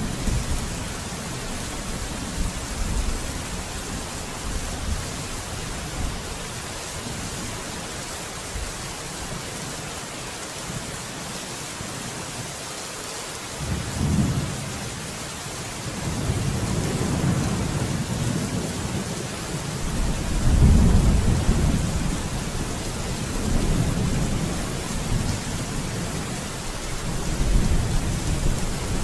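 Steady heavy rain hissing, with thunder rumbling low beneath it. The rumble dies away for a few seconds, returns about halfway through and rolls on, loudest about two-thirds of the way in.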